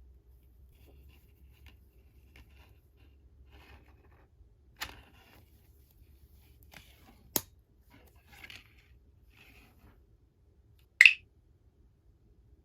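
Small objects and packaging being handled: faint rustling and scraping with a few sharp clicks and taps, the loudest about eleven seconds in.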